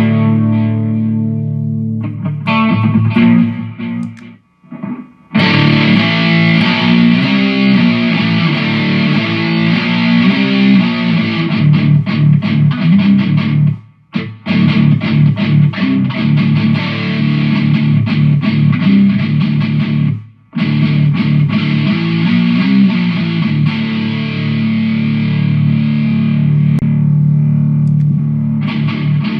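Distorted electric guitar played through a Mooer GE150 multi-effects unit, sustained heavy chords and riffs. The playing breaks off briefly three times, at about four, fourteen and twenty seconds in.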